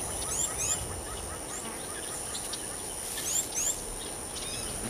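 Steady outdoor background hiss with short, high, rising bird chirps, two pairs of them each about a third of a second apart, near the start and about three seconds in.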